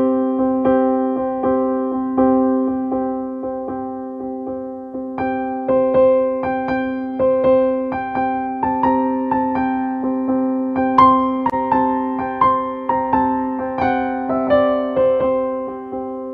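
Background keyboard music: a held chord sounds throughout under evenly repeated struck notes, and a higher melody comes in about a third of the way through.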